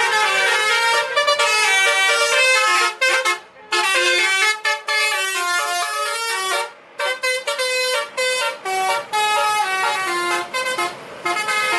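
Truck's basuri musical air horn, a set of horn trumpets playing a melody, changing note several times a second, with two short breaks about three and a half and seven seconds in.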